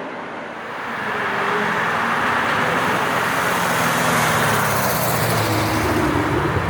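Camaro Z28's 7.0-litre V8 running at a steady pace under a wash of road and tyre noise, swelling over the first second or so and then holding level.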